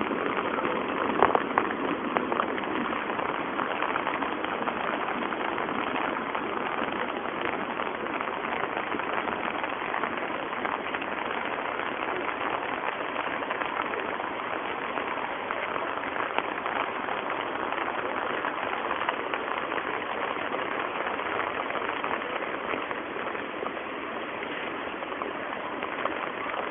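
Steady rain falling on a lotus-covered pond: a dense, even patter that keeps up without a break.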